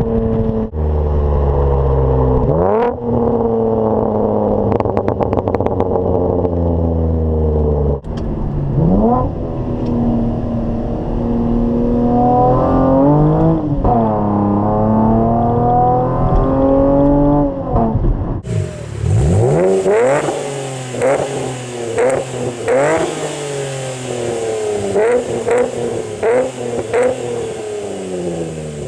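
Chevrolet Camaro exhaust through Dynomax Race Bullet mufflers as the car accelerates: the engine note climbs and falls back again and again as it revs up and shifts. A little past halfway the sound changes abruptly to a wind hiss with quicker, shorter rev rises.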